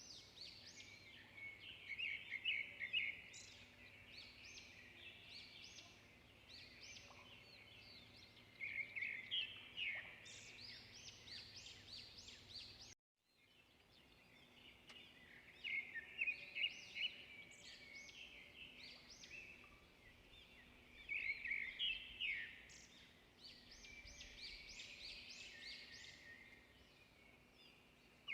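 Small birds chirping and twittering, in repeated flurries of quick high calls. The sound cuts out completely for a moment about halfway through.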